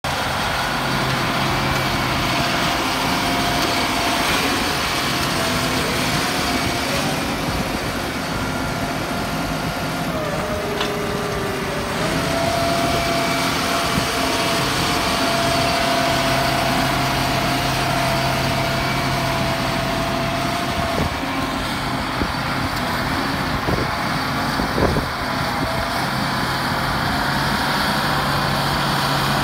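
John Deere 8320R diesel tractor and a pull-type edible bean combine running steadily while the combine unloads, with a steady engine hum and a whine that dips briefly about ten seconds in. A few light knocks come near the end.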